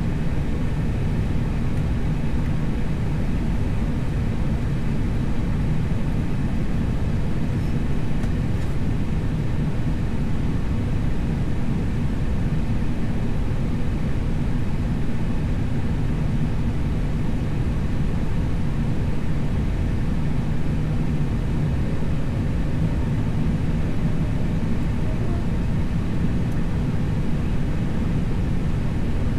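Steady low rumble and hiss in an airliner's cockpit on the ground during pushback, with no change in level.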